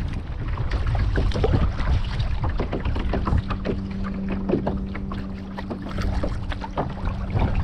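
Kayak paddle strokes splashing and dripping water, with wind rumbling on the microphone. A steady low hum joins about two seconds in and runs until near the end.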